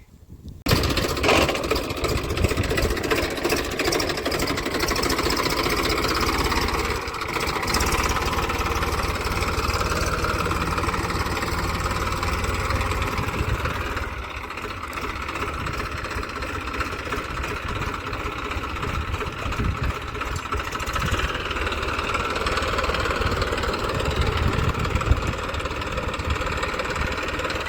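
Massey Ferguson 1035 DI tractor's three-cylinder diesel engine running steadily. It comes in suddenly about a second in and gets a little quieter about halfway.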